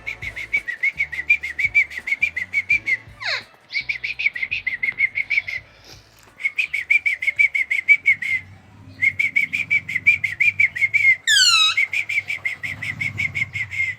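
A parrot chattering in runs of rapid chirps, about seven a second, each run lasting two or three seconds with short gaps between. A steep falling whistle comes about three seconds in, and a falling call just after eleven seconds.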